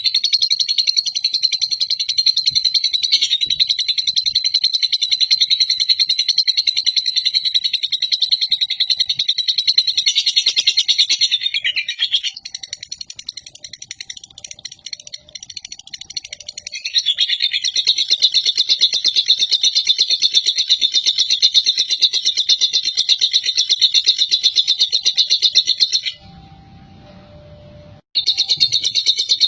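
Lovebird 'ngekek': a long, rapid, high-pitched chattering trill held for about eleven seconds. After a few seconds' break it comes in again for about nine more. A short pause falls near the end before it starts once more.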